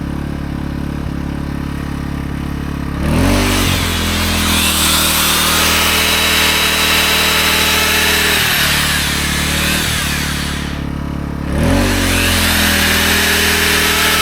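An AiVolt 1600 W gas inverter generator running steadily, then a belt sander plugged into it is switched on about three seconds in; the generator's engine speeds up to carry the load. The sander stops briefly about ten and a half seconds in and starts again a second later, with the engine rising again.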